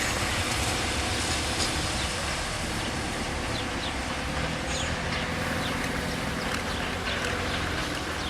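Train running, a steady rumble with a few faint clicks.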